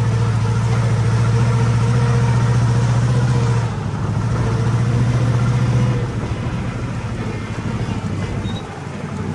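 Stinger Unleashed monster ride truck's engine running under throttle with a strong low hum. It eases off briefly just before 4 seconds in, picks back up, then settles to a lower run about 6 seconds in.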